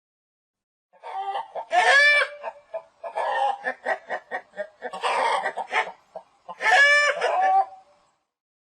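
Domestic hen clucking in a rapid series, with two louder, drawn-out cackling calls, one about two seconds in and one near the end.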